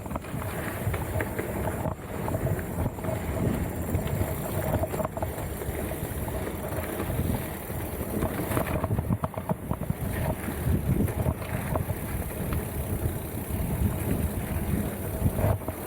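Wind buffeting the camera microphone on a moving mountain bike, with a steady rumble and many short clicks and clatters from the bike rolling over rough trail.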